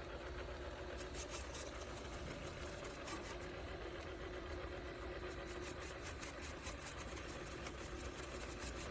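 Yeedi M12 PRO+ robot vacuum-mop running: a steady motor hum with faint, irregular clicking.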